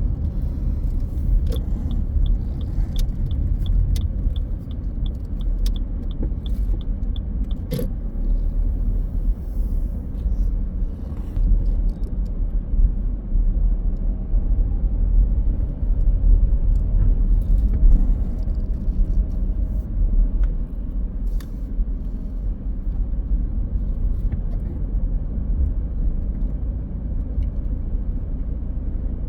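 A car driving, with a steady low rumble of engine and road. For several seconds near the start a light, even ticking runs at about two to three ticks a second, and a few faint clicks come later.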